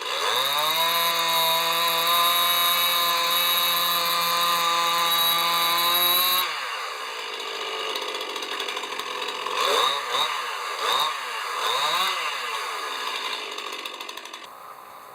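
Chainsaw engine revving up quickly to high speed and holding steady for about six seconds, then dropping back, followed by several short rev-ups and falls before the level drops near the end.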